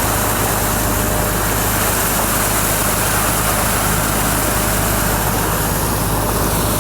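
Excursion motor boat's engine running steadily, under a constant rushing noise with no change in pitch or level.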